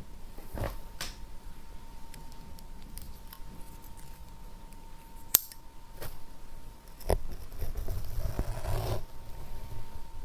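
Close-miked handling sounds: a few sharp clicks and taps, the loudest about five seconds in, then about a second of rustling near the end, over a faint steady hum.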